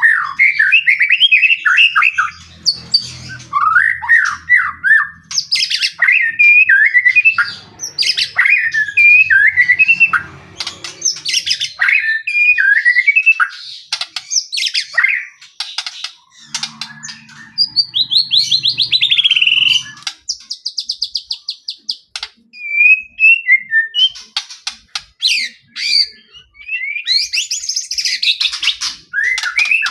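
White-rumped shama (murai batu) singing vigorously and almost without pause. It delivers rapid, varied phrases of sweeping whistles, fast trills and harsh chattering notes, the full 'gacor' song used as a lure to provoke other shamas into answering.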